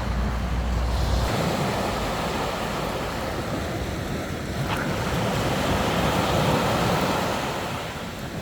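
Sea waves washing onto the beach, a steady surf that swells in the middle. Wind rumbles on the microphone for about the first second.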